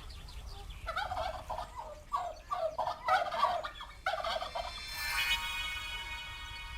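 Domestic turkey gobbling: several fast, rattling gobbles over about three seconds. About five seconds in, a long steady high note follows.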